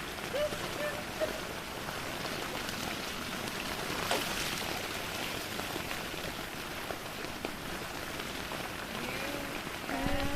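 Rain falling steadily, an even hiss of drops on surfaces, with one sharper splash about four seconds in.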